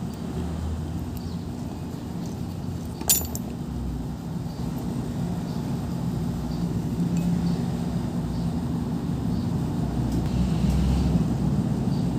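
Brush cutter's small two-stroke engine running steadily at idle, slowly getting louder, with one sharp metallic click about three seconds in.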